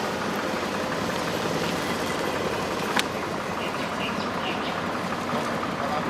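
Truck engine running steadily, with one sharp click about three seconds in.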